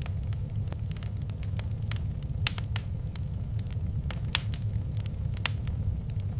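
Wood fire crackling in a fireplace: irregular sharp pops and snaps, the loudest about two and a half, four and a half and five and a half seconds in, over a steady low rumble of the burning fire.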